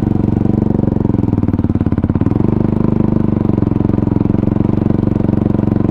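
Kawasaki KFX450R ATV's single-cylinder four-stroke engine running at a steady, even speed, with no revving.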